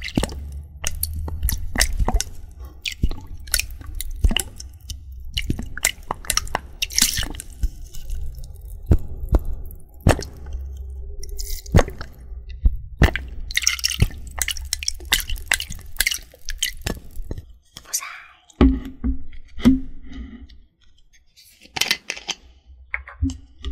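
Close-up ASMR trigger sounds: a dense run of sharp crackles and clicks over a low rumble, thinning out to scattered clicks in the last few seconds.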